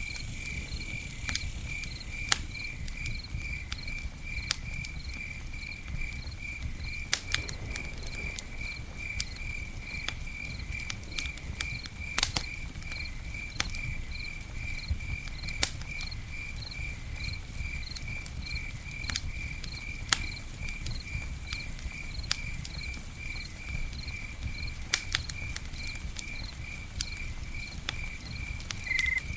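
Campfire crackling, with scattered sharp pops over a low steady rumble, while a cricket chirps in an even, rapid rhythm.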